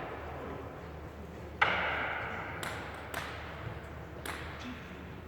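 Table tennis ball clicking off bats and table in a rally: a few sharp separate clicks about half a second to a second apart, the loudest about a second and a half in.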